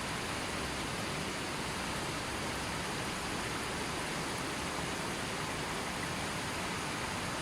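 Softly flowing river: a steady, even rush of water.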